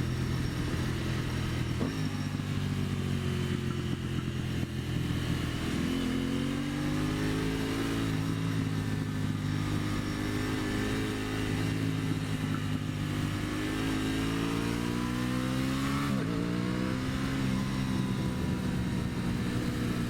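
Aprilia Tuono 660's parallel-twin engine running under way on a motorcycle, its pitch climbing and dropping in steps as the rider changes gear and throttle. There are sharp pitch jumps about two seconds in and again near the end, over steady rushing noise.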